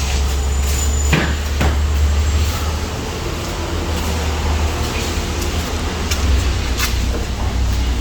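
Steady low rumble with a few sharp clicks, two about a second in and one near the end.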